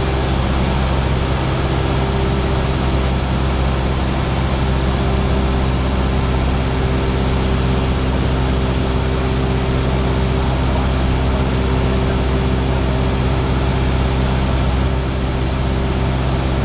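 Cessna 172R's four-cylinder Lycoming engine and propeller droning steadily in flight, an even, unchanging engine tone.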